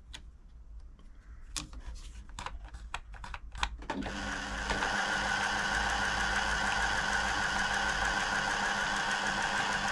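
Pfaff-built Silver 1139 sewing machine: a few scattered clicks at first, then about four seconds in it starts running steadily at speed with a constant whine, being run to work oil into a stiff mechanism.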